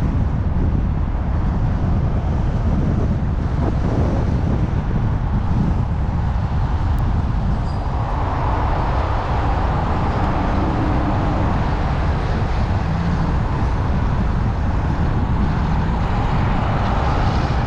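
Steady wind rush and buffeting on the microphone while riding an e-bike, with rolling tyre noise. A higher hiss comes up about halfway through, as the riding speed picks up.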